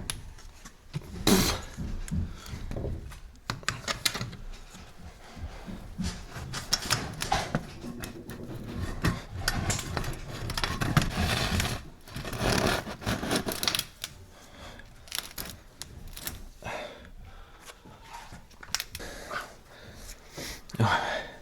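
Metal chimney pipe sections being handled and fitted together by hand: irregular clicks, knocks and scrapes.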